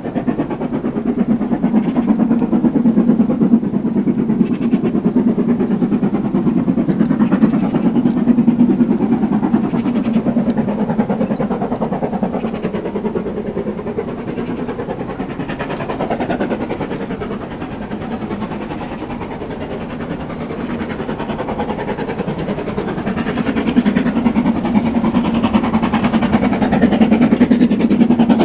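Steam-hauled heritage train running past, its carriages rolling along the track; the sound eases off around the middle and builds again near the end.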